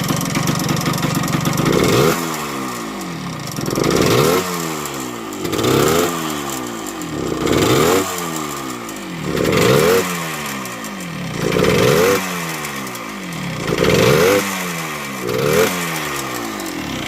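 1978 Yamaha DT100's single-cylinder two-stroke engine idling, then blipped eight times, about every two seconds, each rev climbing quickly and falling back to idle. The engine runs with an exhaust leak that the owner means to seal.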